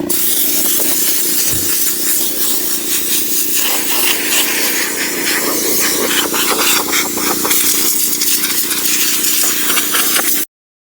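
Air blower hissing steadily as it blows off dust, over a steady low hum. It cuts off suddenly near the end.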